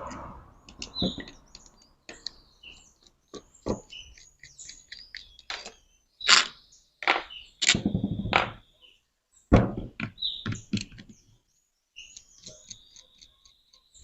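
Irregular knocks and clicks of a freezer fan motor and tools being handled as the fan is taken apart, with birds chirping in the background.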